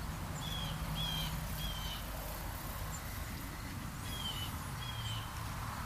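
A bird gives short, slightly falling chirps, three close together near the start and two more later on, over a steady low hum.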